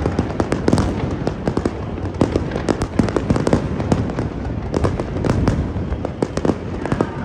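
Fireworks going off in a dense, rapid barrage, many bangs and crackles a second overlapping without pause: the closing volley of the display.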